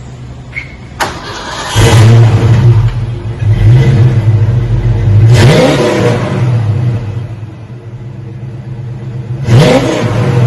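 Ford 5.0 V8 running through a new 2.5-inch exhaust with a true X-pipe and Flowmaster 40 knock-off mufflers, idling and then being revved. The revs come three times: about two seconds in, around the middle, and near the end.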